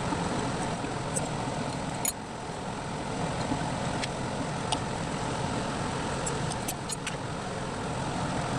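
A machine running steadily, with a few light clicks and taps over it.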